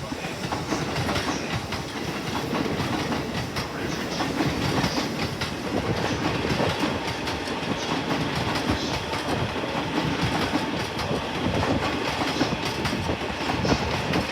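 A 15-car electric commuter train running into the platform, with a steady rumble and wheels clacking over the rail joints.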